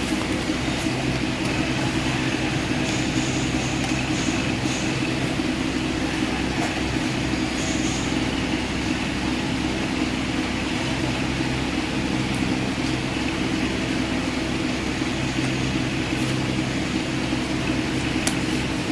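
A steady mechanical hum and hiss, like a fan or motor running, with a few faint light clicks.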